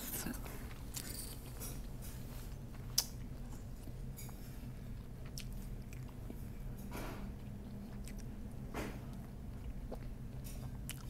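A person chewing a mouthful of soup noodles, close to the mic, with a sharp click about three seconds in and a couple of soft noisy swells later on, over a steady low hum.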